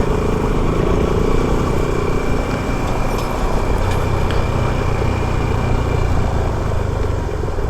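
Yamaha R15 V4's single-cylinder engine running steadily under way, with road and wind noise.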